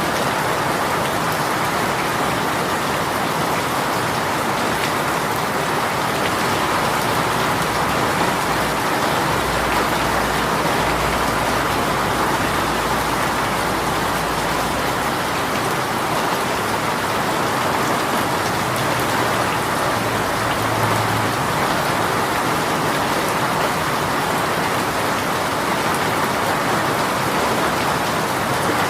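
Heavy shower rain falling steadily, a dense even hiss of drops on surfaces. A faint low rumble sits under it for a few seconds past the middle.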